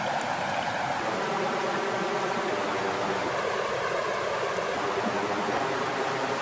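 Steady rush of flowing water, a continuous even wash of stream-like water noise.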